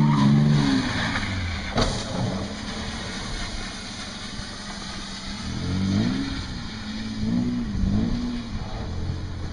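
Car engine running on the road amid road noise, its pitch rising and falling several times in the second half as it revs, with a short knock about two seconds in.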